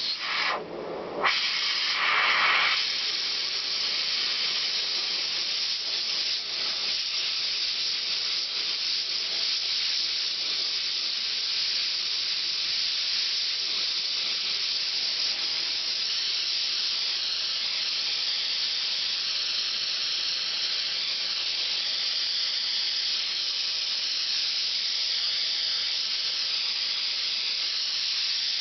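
Gas torch flame hissing steadily, heating a seized motorcycle exhaust joint to free the muffler. The hiss breaks off and comes back briefly a couple of times at first, then runs evenly.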